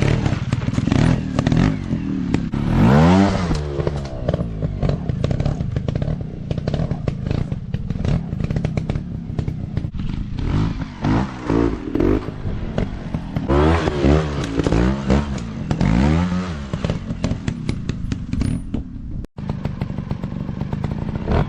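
Dirt bike engines revving in repeated short throttle bursts, the pitch swinging up and falling back again and again, with clattering over the running engines. The sound drops out for an instant a couple of seconds before the end.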